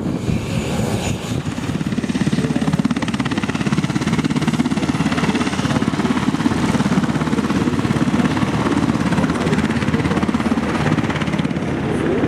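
Helicopter flying at low height, its rotor and turbines making a steady, rapid beating that settles in about a second in.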